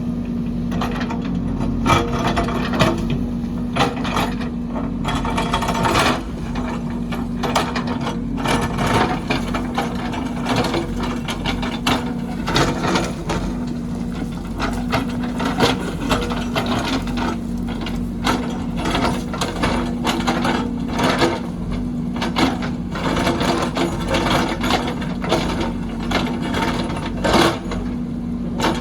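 Backhoe's diesel engine running steadily, with frequent irregular clanks and knocks of the machine at work.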